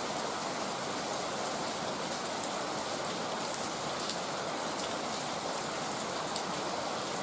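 Heavy rain falling steadily: an even, unbroken hiss with faint scattered ticks of individual drops.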